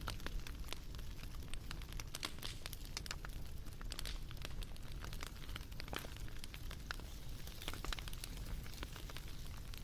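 Bonfire crackling: irregular sharp snaps and pops over a steady low rumble.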